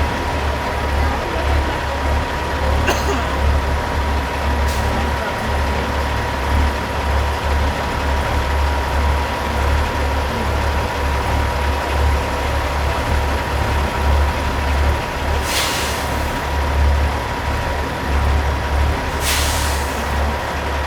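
Peterbilt semi trucks' diesel engines running at low speed with a deep, pulsing rumble, and two short air-brake hisses near the end.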